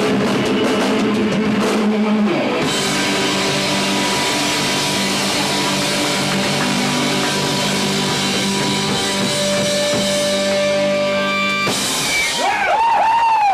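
Live rock band with electric guitars and a drum kit playing the big closing chord of a song, held and ringing with cymbal wash, then cut off sharply about twelve seconds in. Whistles and cheers from the audience follow.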